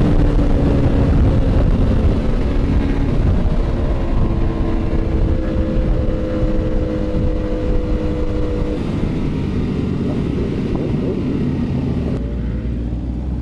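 Motorcycle engine running at a steady pitch over a heavy low rumble for about nine seconds, then easing off into a rougher, less even sound.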